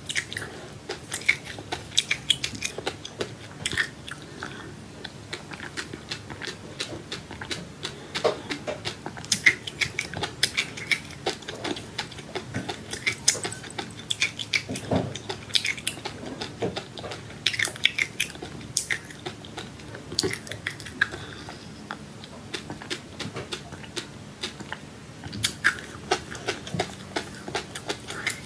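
Close-up eating sounds: biting and chewing, with many short, irregular crunchy clicks throughout.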